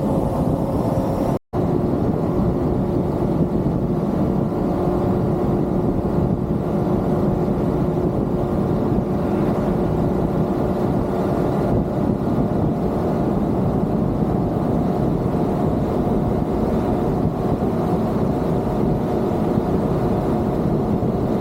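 Pickup truck with a camper on the back driving at a steady speed: continuous engine and road noise with a faint steady hum. The sound cuts out for a split second about a second and a half in.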